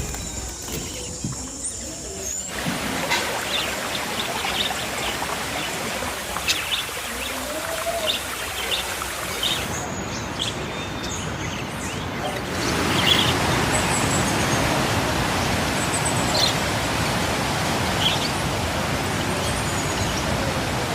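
Short, scattered bird chirps over a steady rushing background noise, which gets louder about two-thirds of the way in.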